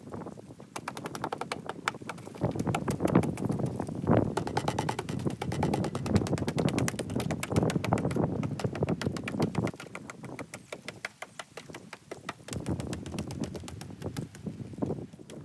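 Rapid mechanical clatter: a fast, even run of sharp clicks, many per second, heavier and louder from a couple of seconds in until near ten seconds.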